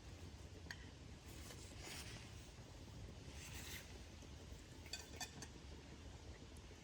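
Quiet forest ambience: a faint steady low rumble with a few soft rustles and light clicks.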